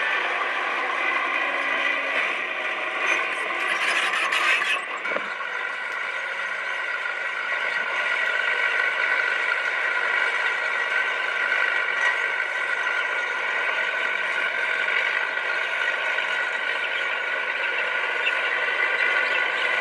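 Komatsu D20P crawler bulldozer running and working, a steady mechanical whine with clattering, with a brief higher hiss about three to four seconds in.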